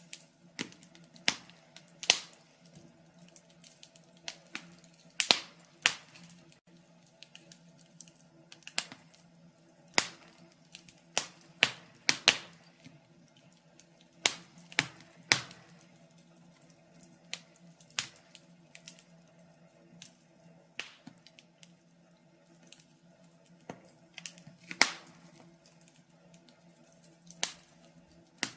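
Wood fire crackling: sharp, irregular pops and snaps, several close together and some louder than the rest, over a faint low steady hum.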